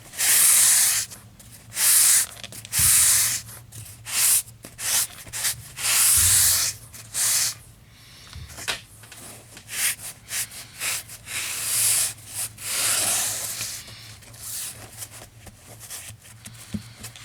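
Paintbrush bristles scrubbing a paint wash over a model's rough concrete floor in repeated strokes, about one a second at first, then softer and quicker.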